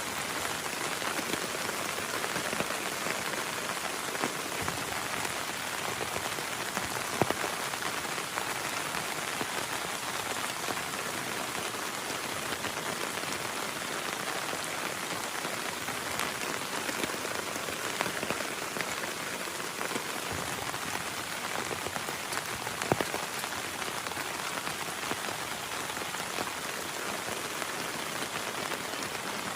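Heavy rain falling steadily, a dense even hiss of drops. Twice a single sharper drop tap stands out.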